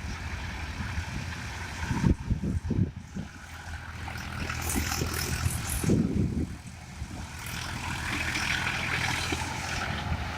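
Massey Ferguson 241 tractor's three-cylinder diesel engine running steadily, with a few low thumps about two and six seconds in.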